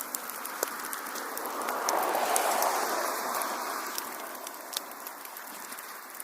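Fire burning in a fireplace: a steady rush of flames that swells about two seconds in and then eases, with scattered sharp crackles and pops.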